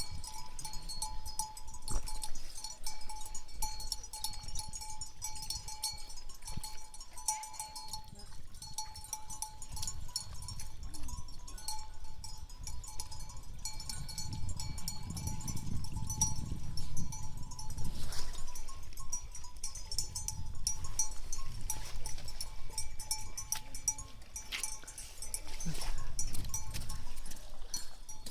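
Wind gusting over the microphone, a low rumble that swells and eases, strongest about halfway through and again near the end. Faint steady high tones and scattered ticks run behind it.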